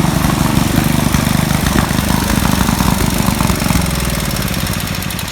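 Garden tractor's small engine running steadily, its note dipping a little and easing off near the end.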